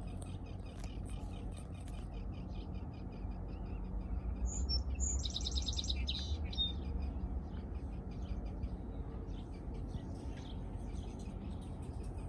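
Small birds chirping repeatedly, with a louder song phrase about five seconds in, over a steady low rumble.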